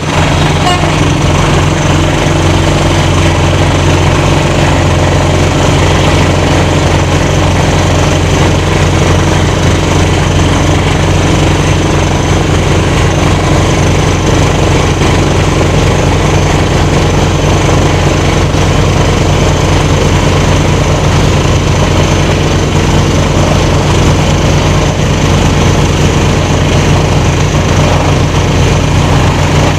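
Heavy mining machinery running steadily: a loud, unbroken low hum with a fast rattle through it.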